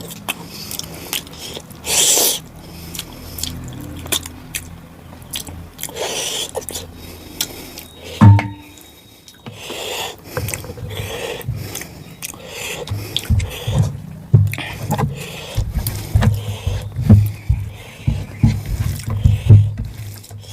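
Close-miked eating sounds: fingers scraping and mixing rice and mutton curry on a plate, with chewing and wet mouth clicks that grow busier in the second half. One sharp clink about eight seconds in.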